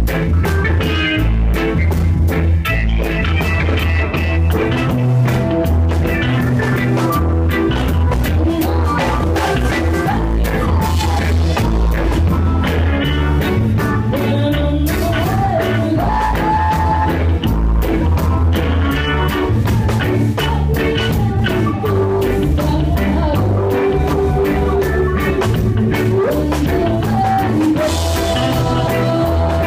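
Live band playing a song: drum kit, bass and electric guitar, with a lead singer's voice coming in at times.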